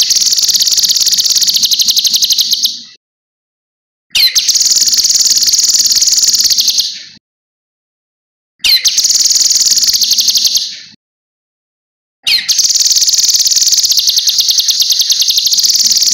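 Cucak kinoi singing: four high-pitched, very rapid trills, each about three seconds long and opening with a quick rising note, separated by short silent pauses.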